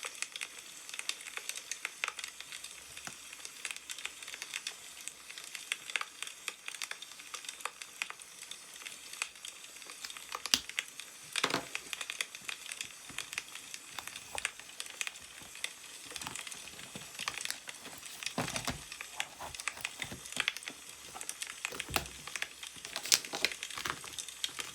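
Wood fire crackling, with frequent small pops. Newspaper rustles a few times as it is handled, loudest a little before the middle and twice near the end.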